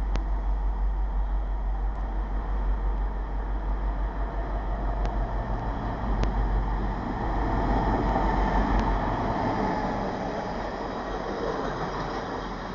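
Diesel locomotive hauling a freight train, approaching and passing at speed, its engine and the rumble of the train growing louder as it nears. It is loudest about eight seconds in.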